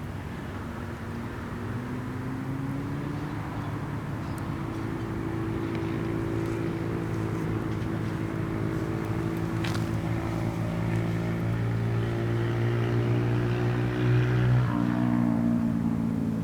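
An engine running, its pitch creeping upward as it grows louder, then changing abruptly near the end.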